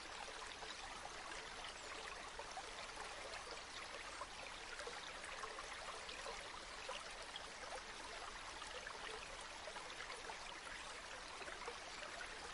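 A river or stream flowing steadily, a continuous faint rush of water with many small trickles and splashes over stones.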